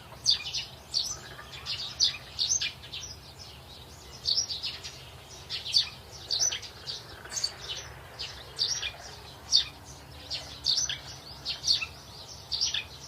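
Small birds chirping: a busy series of short, high chirps, several a second.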